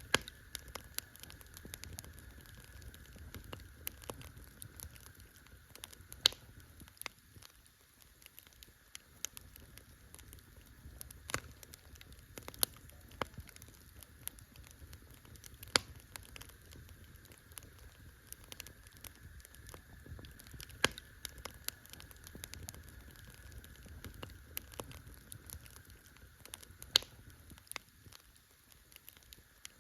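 Wood campfire crackling: a steady scatter of small snaps with a few sharp, louder pops several seconds apart, over a low steady rumble.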